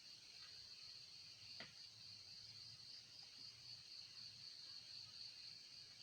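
Faint evening chorus of insects, a steady high continuous trill with a slight pulsing, with one soft click about a second and a half in.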